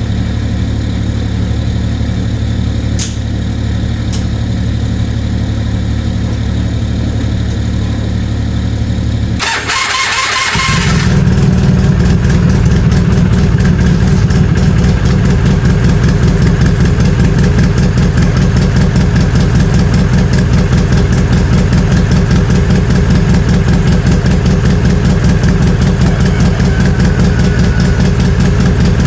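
Four-wheeler's engine idling steadily. About nine and a half seconds in, a starter cranks for about a second and a second small engine catches on a cold start, after which a louder, fuller idle runs on steadily.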